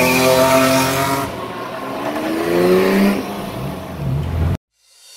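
A car engine revving hard: its pitch holds high, sags, then climbs again for about two seconds before the sound cuts off abruptly near the end.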